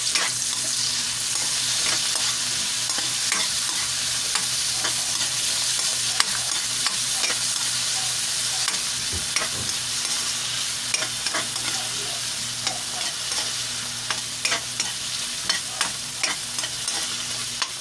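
Garlic, red onion and tomato sizzling in hot oil in a wok, with a spatula scraping and tapping against the pan as the vegetables are stirred; the taps come more often in the second half.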